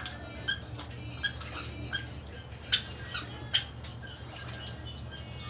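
Pet talking bird making a few short, sharp clicks, about six spread over the first four seconds, over a steady low hum.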